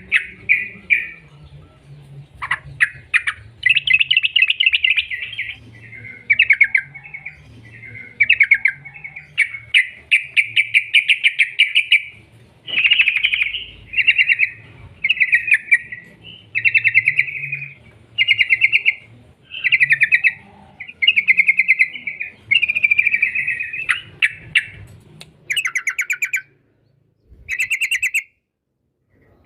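Trucuk (yellow-vented bulbul) singing a long series of rapid, chattering phrases, each about a second long with short breaks between them. These are the fast 'ropel' bursts used as a lure call to set other trucuk singing.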